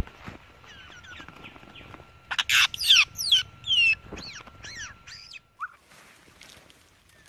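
A bird singing: soft chirps, then about two seconds in a loud, quick run of sharp downward-sweeping whistled notes that ends a little past the middle.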